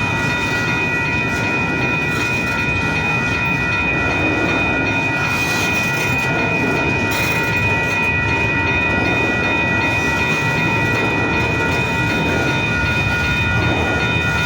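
Intermodal freight train's well cars rolling slowly past, a continuous rumble with a steady high-pitched squeal from the wheels.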